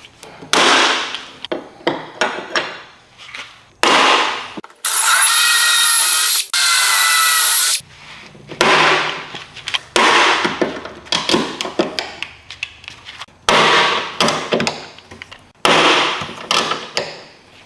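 A power tool runs twice in quick succession with a steady high whine, about five seconds in. Around it come repeated sharp clattering tool-handling sounds, each fading within a second.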